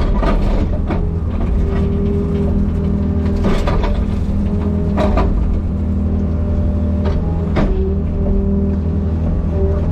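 Excavator's diesel engine running steadily, with a whine that comes and goes and a few sharp knocks.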